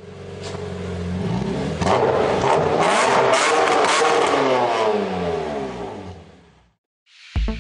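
VW Scirocco 2.0 TDI four-cylinder diesel engine revving hard: it starts from a steady low running, climbs and stays loud for a few seconds, then fades away. Electronic music starts just before the end.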